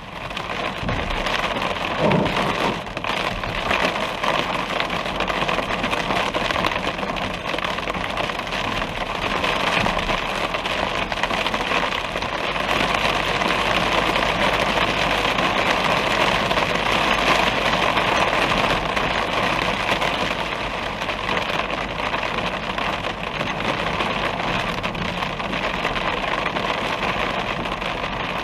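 Heavy rain falling steadily during a thunderstorm, a dense hiss that grows louder about half a second in and then holds.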